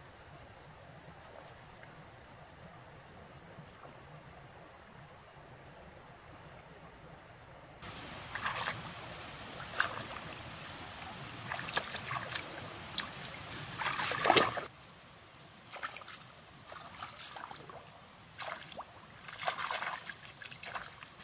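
Faint, evenly repeated insect chirping, then about eight seconds in, irregular splashing and sloshing of water that comes and goes in short bursts.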